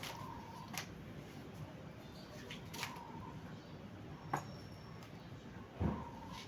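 A few separate sharp clicks and knocks, about four in all, over a steady low background hum. The last knock, near the end, is the loudest and deepest.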